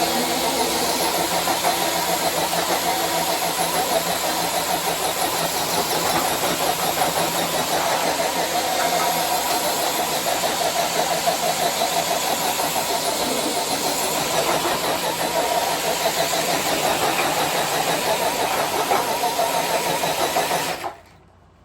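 Electric RC crawler truck's motor and geared drivetrain whining steadily under load as it drags a sled weighted with five blocks. The sound cuts off suddenly near the end.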